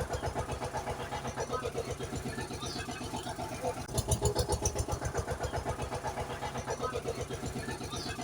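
Small engine idling with a fast, even chugging pulse, a looped engine sound effect that repeats about every six seconds.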